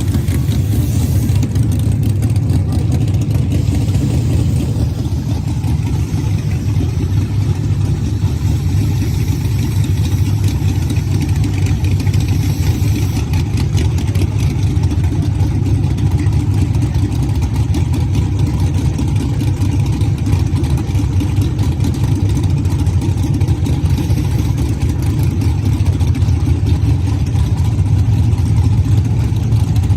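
Drag race car engines idling steadily, a constant low rumble with no revs or launches.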